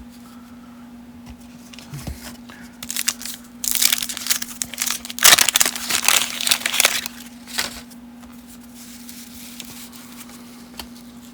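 Wax-paper wrapper of a 1990 Topps baseball card pack crinkling and tearing as the pack is opened by hand, in a run of crackly bursts from about two seconds in to near eight seconds, loudest in the middle.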